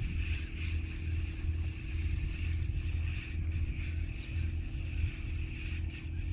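Spinning fishing reel whirring steadily, its gears or drag running without a break, over a low rumble of wind on the microphone.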